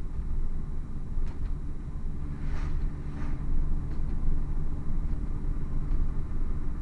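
A Hartge-tuned MINI's engine running steadily through its Hayward & Scott exhaust, a constant low drone at a steady pitch. A few brief hissy swooshes rise above it.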